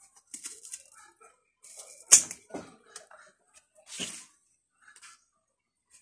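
Close handling noises: short bursts of rustling and a few sharp cracks, the loudest about two seconds in and another about four seconds in.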